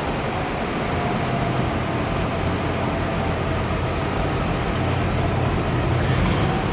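1959 Cadillac limousine's 390 cubic-inch V8 idling steadily, heard close to the tailpipe as a low, even exhaust note.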